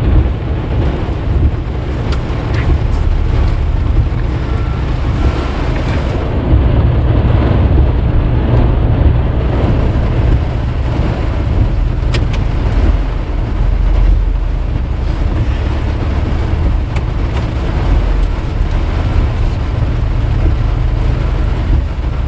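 Tow truck running down the road towing a Tahoe: a steady low engine and road rumble with a haze of road and rain noise.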